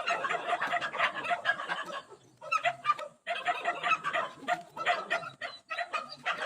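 Chickens clucking in a dense run of short repeated calls, with a couple of brief lulls partway through.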